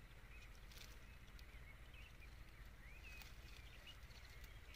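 Near silence: faint outdoor background with a few faint high chirps from small birds.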